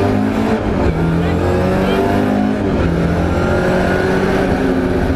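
Rally car engine running hard under load, heard from inside the cabin, its pitch climbing and then stepping as gears are changed.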